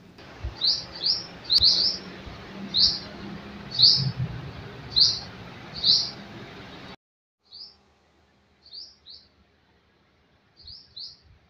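A small bird chirping: short high chirps repeated every half second to a second, over a steady background noise that cuts off abruptly about seven seconds in.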